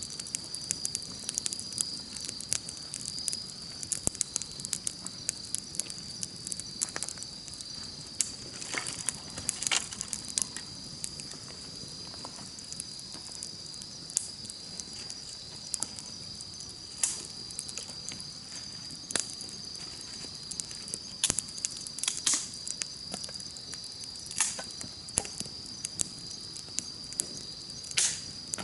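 Campfire crackling, with irregular sharp pops and snaps, over a steady high-pitched insect trill.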